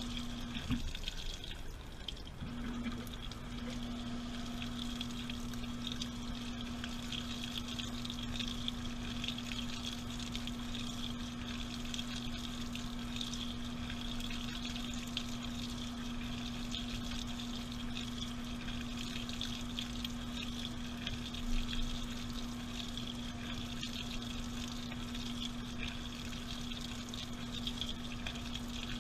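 Washing machine running with water, heard from inside the drum: a steady rush of water over a constant electric hum, which cuts out briefly about a second in and then resumes.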